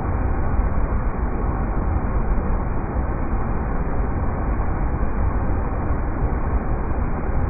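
River rapids rushing: a steady, unchanging noise of water, heaviest in a deep low rumble.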